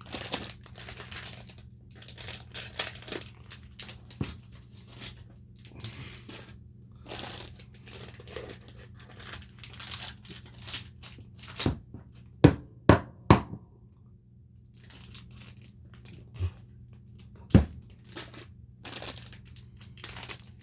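Small fidget-spinner packs being torn open and their wrappers crinkled by hand, in irregular rustling bursts, with a few sharp clicks about halfway through and another later on.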